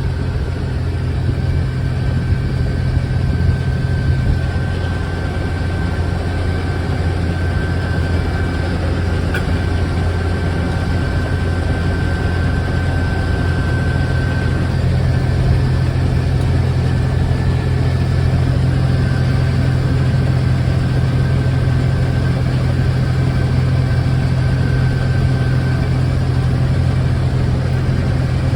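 Combine harvester running steadily while harvesting wheat: a constant low engine drone with a faint steady whine above it.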